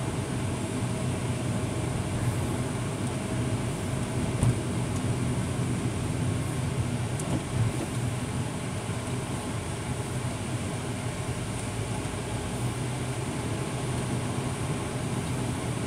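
Truck engine and road noise heard from inside the cab while driving, a steady low hum.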